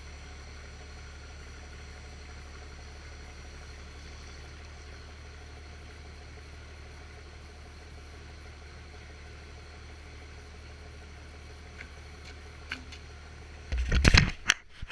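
Steady low machine hum, with loud knocking and rustling starting about a second before the end.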